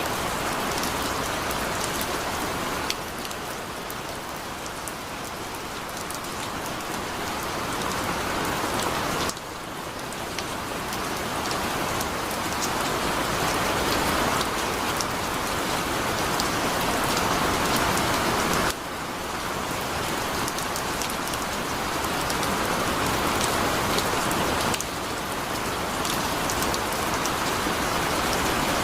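Heavy rain falling steadily, a dense even hiss of many drops, with small sudden jumps in loudness every few seconds.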